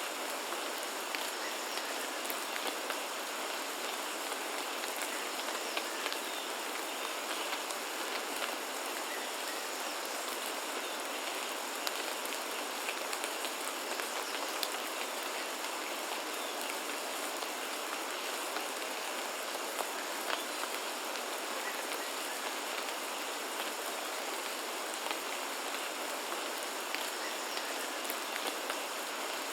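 Steady rain falling, with many small drops ticking on surfaces in a constant wash.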